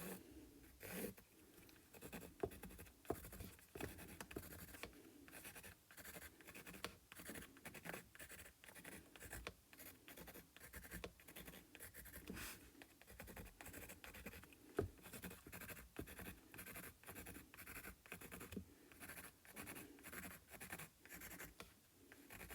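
Faint scratching of quick, short sketching strokes drawing needle-like leaves, several strokes a second, with a few sharper taps along the way.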